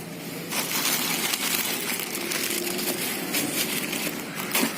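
Steady crinkling, crackling rustle that starts about half a second in.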